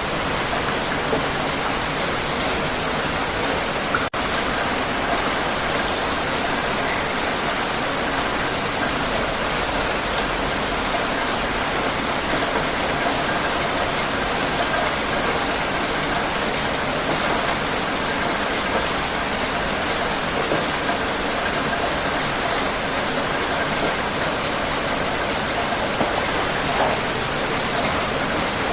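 Heavy rain falling steadily, an even hiss with scattered drop patter. It dips out for an instant about four seconds in.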